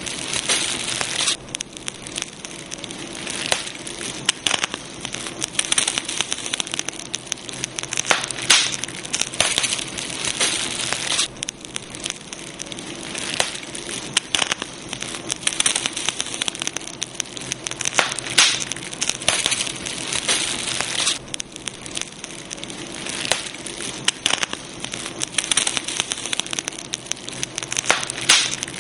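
Campfire burning, wood crackling and popping steadily over a hiss that swells and eases every few seconds.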